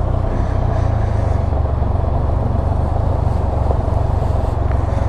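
Can-Am Spyder RT-S three-wheeled roadster's engine running steadily at cruising speed while riding, a constant low drone with road and wind noise over it.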